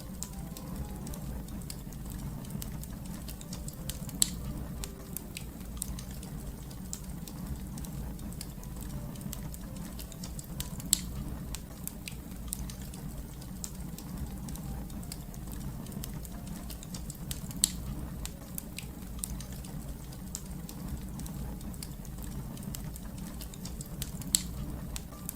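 Fire crackling: a steady low rumble of flames, dotted with frequent small pops and a few louder snaps.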